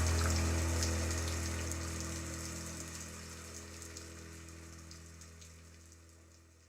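Rain falling, a steady crackling patter, over a low sustained chord, both fading out steadily to silence.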